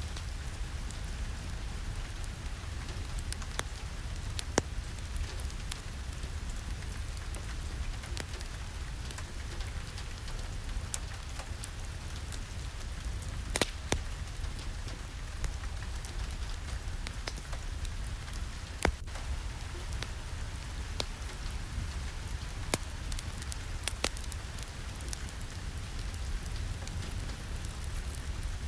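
Steady rain mixed with a wood fire crackling in a fireplace: an even rain hiss with scattered sharp pops and crackles throughout.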